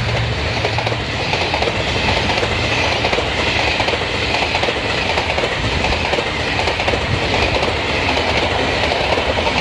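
Passenger train carriages running through a station at speed without stopping, their wheels clattering steadily over the rail joints.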